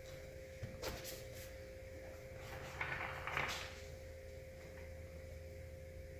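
Faint handling noises from office-chair parts being worked on: a few light knocks about a second in, then a short rustling scrape around three seconds in, over a steady low hum.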